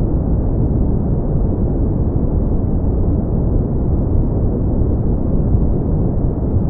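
Steady brown noise: a deep, even rumbling hiss, strongest in the low end and fading away toward the treble, unchanging throughout.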